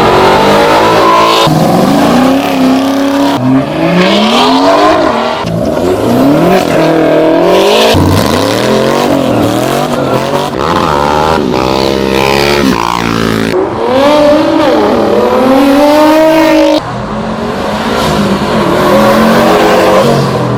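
Car engines revving and accelerating hard in a quick series of separate clips, the engine pitch climbing and dropping sharply, with an abrupt cut from one car to the next every two to three seconds.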